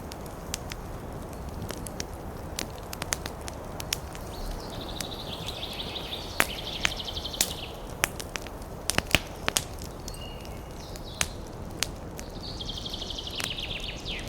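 Wood fire burning in a fireplace, with a steady low rumble and irregular sharp crackles and pops. Twice a high, fluttering hiss rises from the burning wood for a few seconds, the second near the end.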